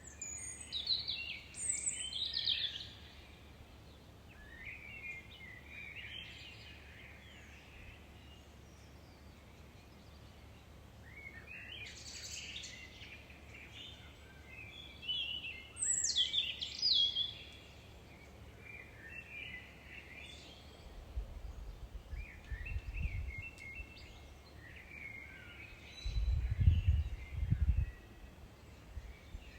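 Wild birds singing in short, separate song phrases, one after another, over a faint steady low hum. Twice in the second half a low rumble comes in, the second one the loudest sound.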